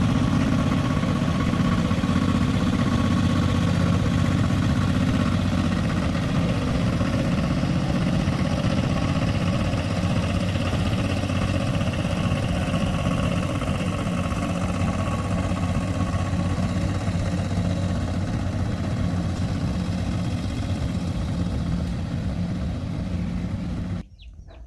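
Small tractor engine idling steadily, a low even running note that cuts off suddenly near the end.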